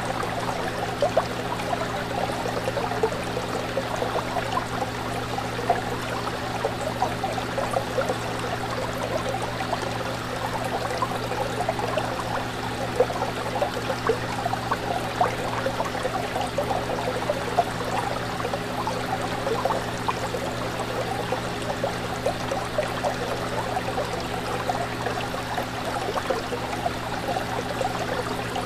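Aquarium water bubbling and trickling continuously, with many small irregular splashes, over the steady low hum of the tank's pump.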